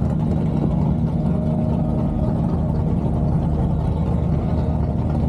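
A car engine idling steadily, with no revving.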